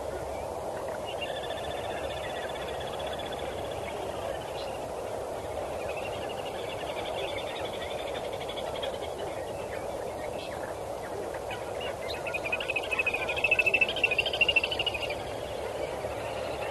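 Birds calling in rapid, pulsing chattering trills: three bouts, the last and loudest about twelve seconds in. The calls sound over a steady low rushing background noise.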